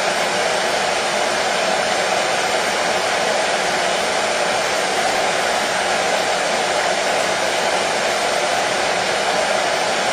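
Hair dryer running steadily: an even, unbroken rush of air and motor noise, played continuously as white noise to soothe a colicky baby to sleep.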